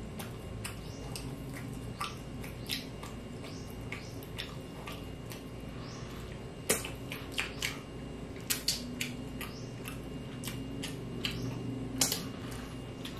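Close-miked chewing and lip-smacking: a scattered run of short, wet mouth clicks, thickest about halfway through and again near the end, over a steady low hum.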